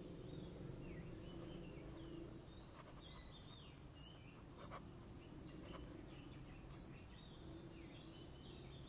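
Faint bird calls: short down-slurred chirps repeating again and again, over a low steady background hum.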